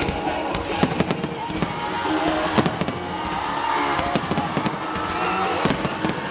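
Aerial fireworks bursting and crackling again and again, with sharper bangs at intervals, over the show's pop soundtrack music.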